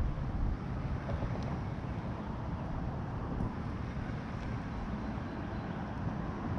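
Wind buffeting the microphone, a steady low rumbling noise that rises and falls slightly.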